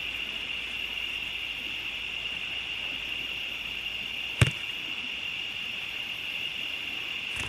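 A steady chorus of crickets, with one sharp click about four and a half seconds in.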